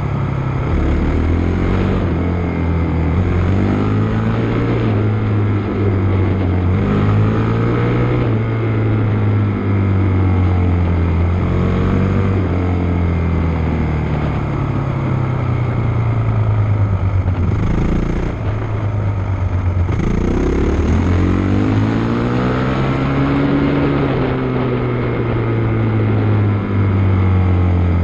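Motocross bike engine being ridden, its pitch climbing and dropping again and again as the rider opens and closes the throttle and shifts.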